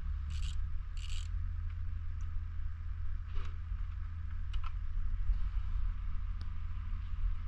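Ratchet wrench being worked in short strokes, each giving a quick raspy clicking burst, which stop about a second in. A few faint clicks and taps follow over a steady low rumble.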